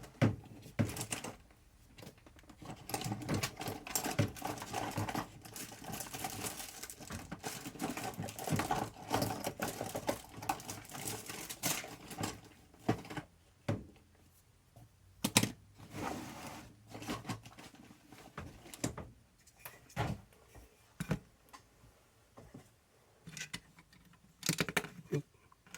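RC shock parts being handled and fitted together on a workbench: irregular small clicks, taps and rattles. They come thick and fast for the first dozen seconds, then as scattered single clicks.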